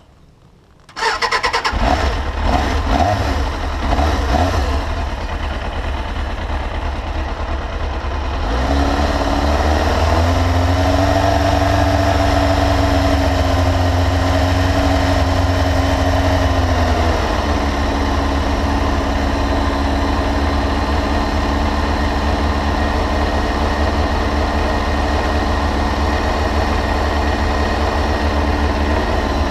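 1994 Suzuki RF400RV's inline-four engine started on the electric starter, catching on the first press and running unevenly for a few seconds. It then warms up at a steady idle, held at a higher speed from about nine seconds in and dropping to a lower idle at about seventeen seconds.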